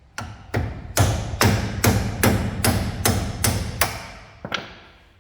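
Hammer striking the steel of a 1998 Dodge Dakota's front suspension, about eleven hard, ringing blows at a steady pace of two to three a second, the last after a short pause; the work of knocking the lower ball joint loose.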